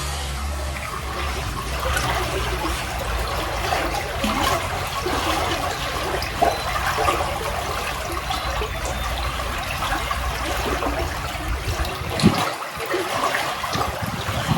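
Running water, rushing and trickling steadily, with a low rumble underneath that falls away at about 12 seconds.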